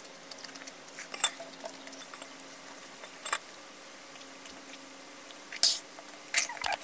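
Close mouth sounds of chewing a kimchi dumpling with bits of crunchy cubed radish, with scattered small clicks and smacks over a faint steady hum. A louder smack and swallow comes after a sip from a glass of drink, about two thirds of the way in.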